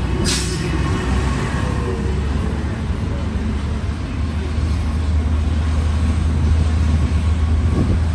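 A motor vehicle's engine running steadily close by, a low rumble.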